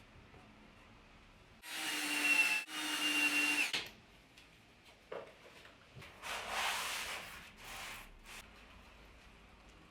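A power drill runs in two short bursts of about a second each, one straight after the other, with a steady whine. A few seconds later comes a longer, rougher noise without the whine, as of a tool or wood rubbing.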